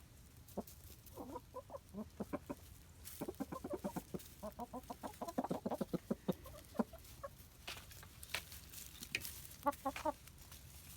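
Chickens clucking in quick runs of short notes, with a brief burst again near the end, and a few sharp clicks in between.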